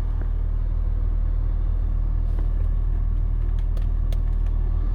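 BMW E39 engine idling steadily with the air-conditioning compressor running, a constant low rumble. A few light clicks come about three and a half to four seconds in.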